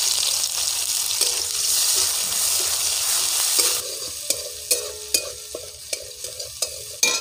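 Ground ginger-garlic paste and spices sizzling loudly in hot mustard oil in a steel kadai. The sizzle drops away after about four seconds, and a metal spatula then scrapes and clicks against the pan about twice a second as the mixture is stirred.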